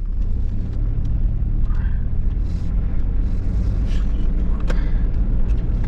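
Vehicle being driven, heard from inside the cabin: a steady low engine and road rumble.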